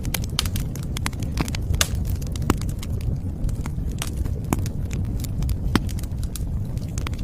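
Campfire crackling, with irregular sharp pops and snaps over a steady low rumble of the flames.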